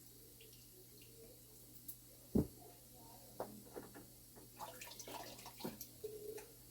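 Small metal clock parts handled at a workbench: scattered faint clicks and knocks, with one louder knock about two and a half seconds in and a run of small clicks near the end.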